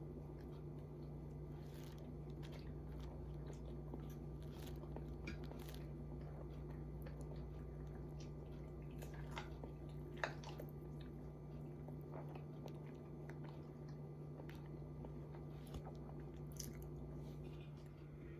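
Faint sounds of someone eating: quiet chewing and a few light clicks, like cutlery on a plate, over a steady low hum.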